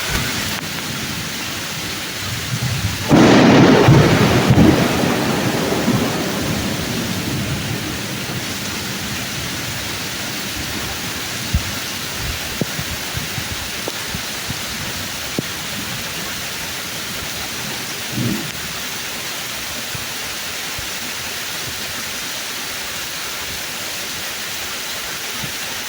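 Heavy rain pouring steadily onto the leaves of woodland trees. A sharp thunderclap about three seconds in is the loudest sound, and it rumbles away over several seconds. A brief low thump comes later.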